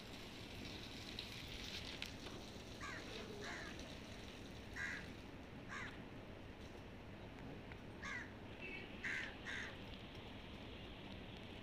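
A bird calling in short calls, about seven of them at irregular intervals, over a steady background hiss.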